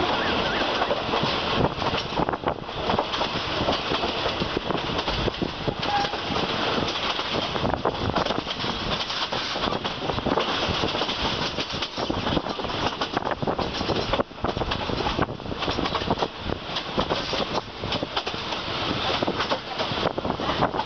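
Moving passenger train heard from an open coach window: a steady rumble of wheels on rails, with frequent clacks from the rail joints.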